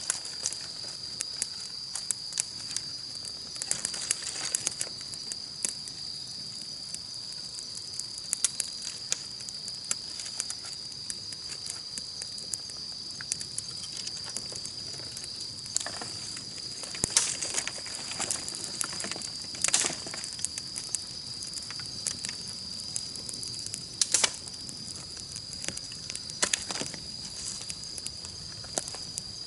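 Wood campfire crackling, with irregular sharp pops scattered through, over a steady high-pitched chirring of insects.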